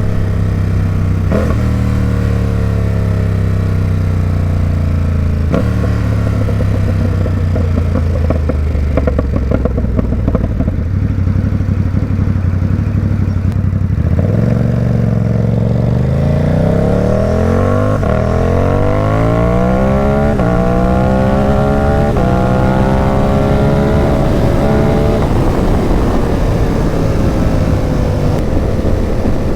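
Ducati Supersport 950 S V-twin engine through an aftermarket Competition Werkes slip-on exhaust, ridden: the note falls as the bike slows, jumps twice in the first few seconds, and runs low and crackly. From about halfway it rises steeply under hard acceleration, then drops away near the end.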